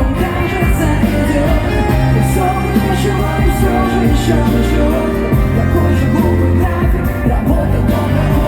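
Live pop band music played loudly through an arena sound system, with a steady bass line and some singing in the mix.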